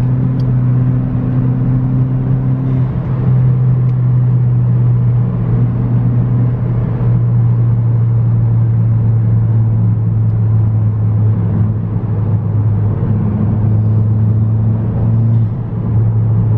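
Car engine and road noise heard from inside the cabin during a timed run, the engine holding a steady drone that shifts in pitch a few times and dips briefly near the end.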